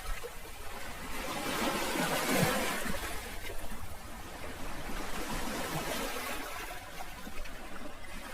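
Sea waves washing onto a shore: one wave swells and breaks in the first few seconds, then a quieter wash of water.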